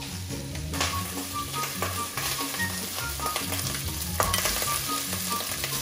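Chicken and egg sizzling in a hot frying pan while being stirred with a wooden spatula, with small scrapes and clicks against the pan; the sizzle grows louder about a second in. A sharp knock about four seconds in.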